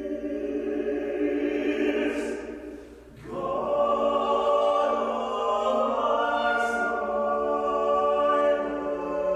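Choir singing long, held chords, with a short break about three seconds in before a fuller, louder chord that swells on.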